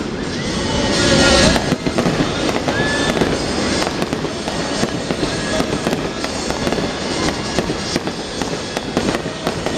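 Fireworks display going off in a continuous run of crackling bursts and bangs, loudest about a second in.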